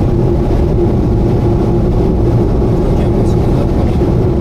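Subaru Vivio kei car driving at steady expressway speed, heard from inside the cabin: a constant engine and road drone with a steady mid-pitched tone running through it.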